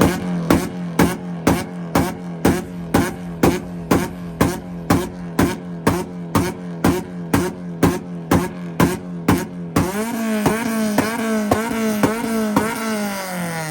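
Honda Accord engine held on a two-step launch limiter: a steady held rev chopped by sharp, rhythmic pops about twice a second. About ten seconds in the pops stop and the engine holds a slightly higher, wavering rev, then drops off near the end.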